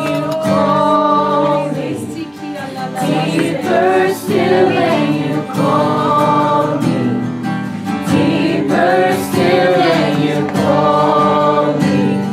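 Worship music: voices singing long held, wavering phrases over a steady instrumental accompaniment.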